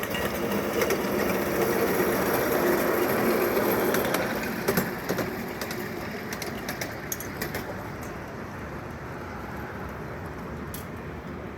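Miniature park railway train running past, a swelling rumble that fades after about four seconds, with a run of sharp clicks in the middle.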